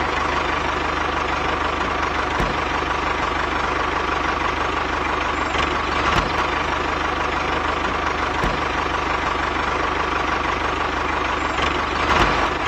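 An engine running steadily at idle, with an even unchanging tone and a few faint ticks.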